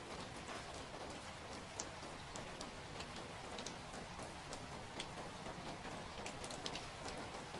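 Steady rain, a soft even hiss with scattered sharp drips and taps at irregular moments.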